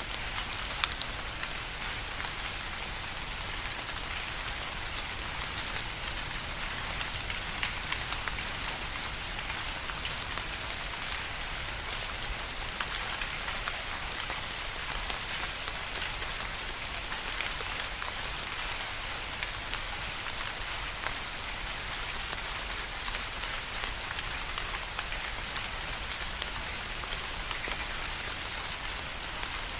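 Steady rain falling, an even hiss with many individual drops ticking and pattering on a surface throughout.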